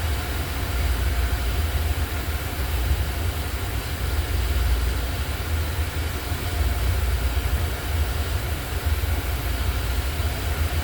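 Wind buffeting the microphone, an uneven low rumble that rises and falls with the gusts, over a faint steady hum.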